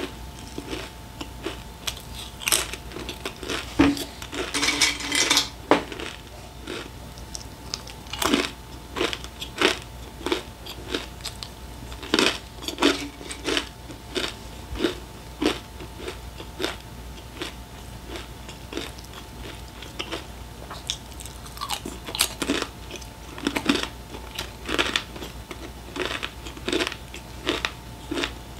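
A person crunching and chewing crisp snacks close to the microphone: a long run of sharp, irregular crunches, with a denser crackling stretch about five seconds in, over a faint steady hum.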